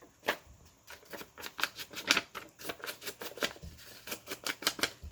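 Quick, irregular taps and rustles of paper being handled and dabbed on a craft table, several a second.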